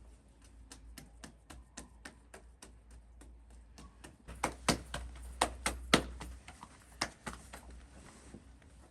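A run of sharp taps, about three a second, getting louder in the middle and fading again near the end.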